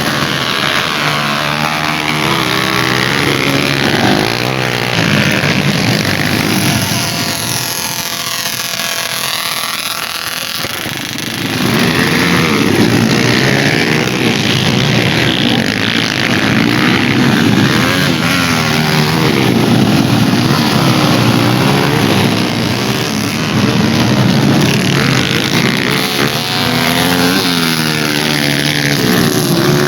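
Dirt bike engines revving hard on a dirt track, their pitch rising and falling through gear changes and throttle blips. Several bikes overlap. The sound eases for a few seconds near the middle, then grows louder again.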